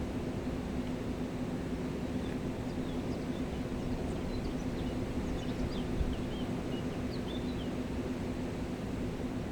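Steady rush of a mountain river, the Gave de Pau, with a steady low hum beneath it. Small birds chirp briefly in high quick notes many times through the middle, and there is one brief low thump about six seconds in.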